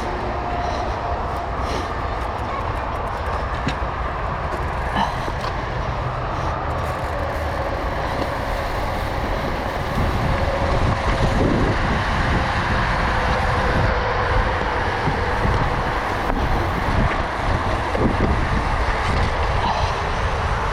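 Mountain bike riding down a wet, rutted trail: wind rumble on the riding camera's microphone with tyre and bike rattle, getting louder about ten seconds in.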